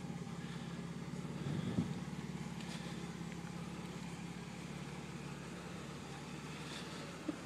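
A 1987 Mercedes-Benz 260E's 2.6-litre straight-six idling with a steady, faint, hard-to-hear hum. It runs evenly, with no knocks.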